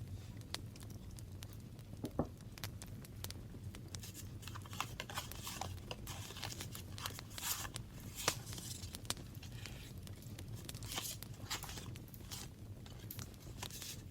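Paper being handled by hand: tearing and crinkling, with many small, sharp clicks and taps scattered throughout.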